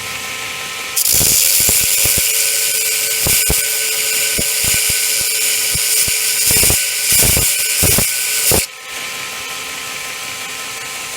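Heretic Hyperlite 2x72 belt grinder running at about quarter speed with a steady motor hum; about a second in, a workpiece is pressed to the worn 80-grit belt and a loud, hissing grind starts, with a few knocks, until it stops suddenly near the end, leaving the machine idling.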